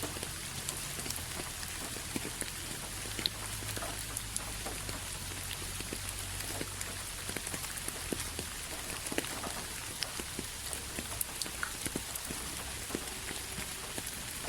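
Steady rain falling, an even hiss with many separate drops striking a surface.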